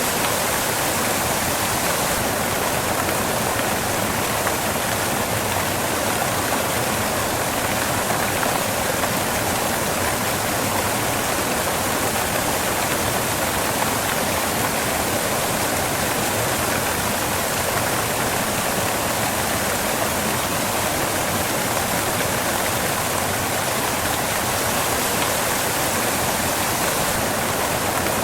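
Waterfall crashing off rocks: a steady, unbroken rush of falling water.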